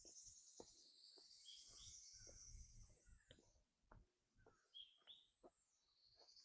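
Faint outdoor chorus of insects, a high, finely pulsing buzz that swells and fades, with a few short bird chirps scattered through it.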